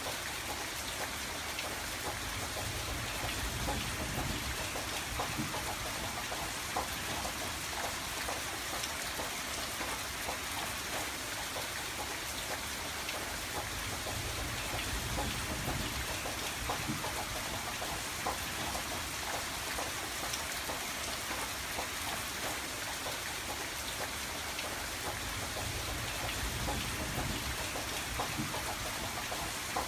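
Steady rain on a window pane, with many small drops ticking against the glass. A low rumble swells and fades underneath a few times.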